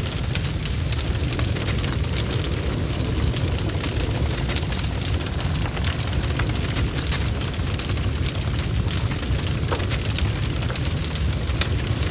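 Wood fire burning, with a steady low rumble of flames and frequent sharp crackles and pops from the burning wood.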